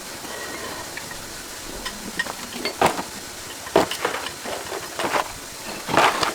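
Tractor parts being handled in a workshop: a handful of metal clanks and knocks as pieces are moved and set down, the loudest near the middle and again near the end.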